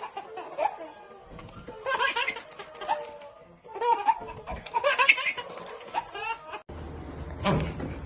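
A person laughing in repeated short bursts, with faint background music; about six and a half seconds in the sound cuts abruptly to a low steady hum.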